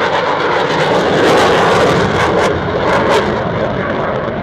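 Eurofighter Typhoon's twin jet engines running at steady power with a rough crackle as the fighter holds a slow, nose-high pass, its height kept on the throttles.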